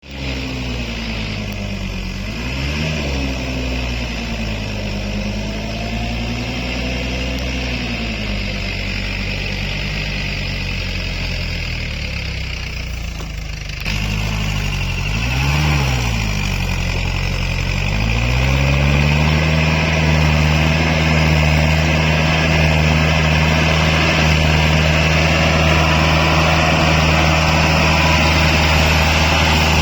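Tractor engine running, its revs rising and falling briefly twice, then held steady at a higher, louder pitch for the last ten seconds or so, as it labours with the tractor stuck deep in mud.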